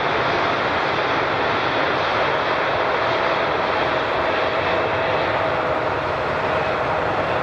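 Airliner engines running, a loud steady rush of noise with a faint whine that drifts slightly lower.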